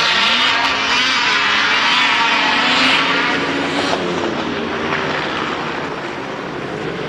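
Large engine running loud, its pitch sliding up and down, loudest in the first three seconds and easing off after that.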